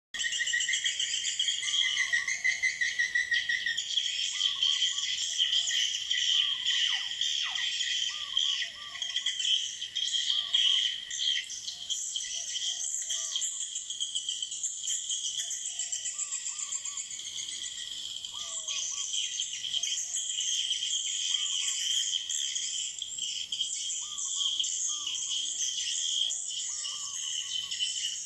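Swiftlets twittering in a dense, continuous high chatter, with softer, lower chirps recurring every second or two.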